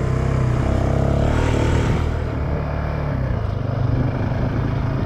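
Honda CRF450X dirt bike's single-cylinder four-stroke engine running while riding, easing off about two seconds in and picking back up near the end.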